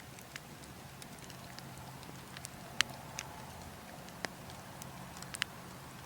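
Wood logs burning, with a scattering of sharp crackles and pops, the loudest a little before the middle, over a steady low rush of wind.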